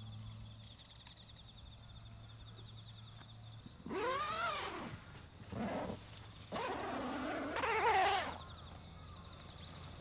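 Insects keep up a steady, high, pulsing trill. About four seconds in, three loud calls break in, each rising and falling in pitch, and the last one is the longest and loudest.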